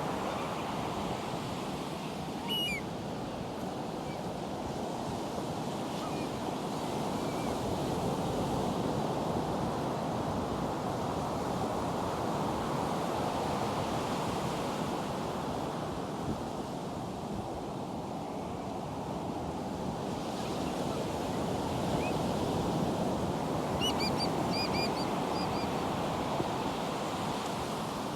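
Ocean surf washing onto a beach: a steady rush of breaking waves that slowly swells and eases. A few short high chirps come about two and a half seconds in and again near the end.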